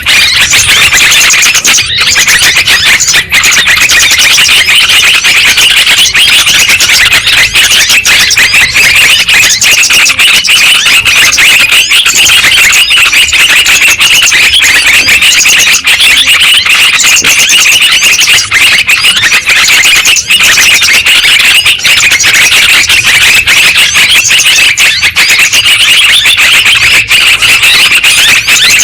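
Yellow-vented bulbuls (trucukan) in a dense, loud, unbroken chorus of quick chattering and warbling calls. This is the sound played as a lure to draw trucukan or set a caged one singing.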